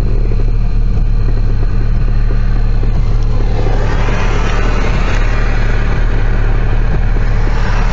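A loud steady low hum, with a rushing noise that swells about three and a half seconds in.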